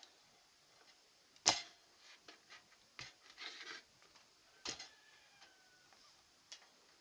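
Scattered sharp clicks and knocks of multimeter probes and toaster parts being handled during a continuity check of the toaster's heating elements, the loudest knock about a second and a half in and a quick cluster of taps a little later.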